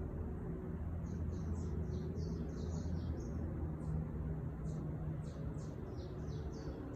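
Songbird chirping: a quick series of short, high-pitched notes starting about a second in, pausing briefly, then resuming, over a steady low hum.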